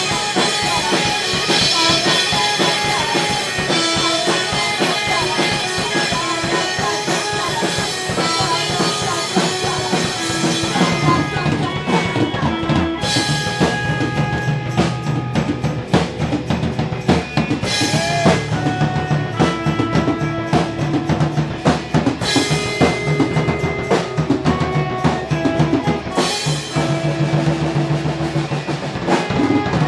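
Live rock band playing, with drum kit, guitars and bass. About eleven seconds in, the dense wall of sound thins out to drum hits and held low bass notes, with a cymbal crash every four seconds or so.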